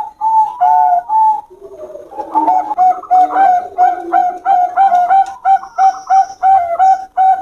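Zebra doves (perkutut) cooing: a few notes, a short break about a second and a half in, then a quick run of short repeated coos at about two or three a second.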